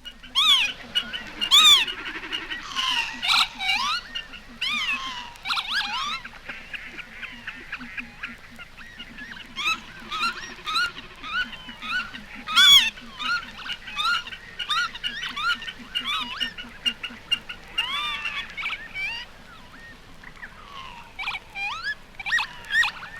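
Lapwings repeatedly giving their rising-and-falling 'pee-wit' calls, with a common snipe drumming and chippering as a low, rapid throbbing underneath.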